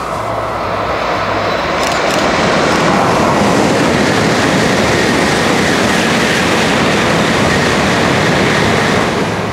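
Tokaido Shinkansen train passing through the station at high speed without stopping. A loud rushing noise builds over the first couple of seconds, holds steady, and begins to fade about nine seconds in.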